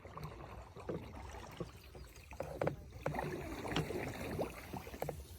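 Canoe being paddled: paddles dipping and splashing in the water, with a few short knocks, busier from about two and a half seconds in.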